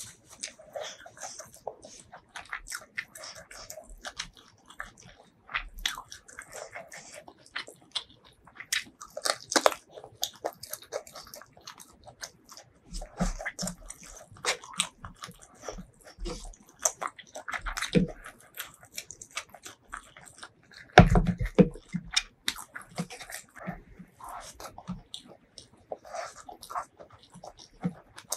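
Close-miked eating: a person chewing and biting mouthfuls of duck curry and rice, with many irregular wet clicks, and fingers mixing rice into the curry on a wooden board. One louder knock comes about three-quarters of the way through.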